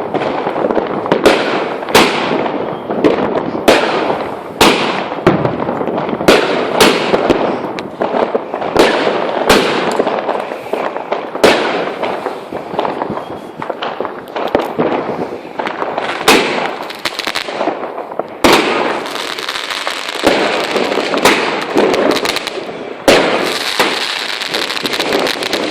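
Consumer fireworks going off: a steady run of sharp bangs, about one or two a second, over continuous dense crackling. From about 18 seconds in, a brighter hissing crackle takes over, with bangs still breaking through.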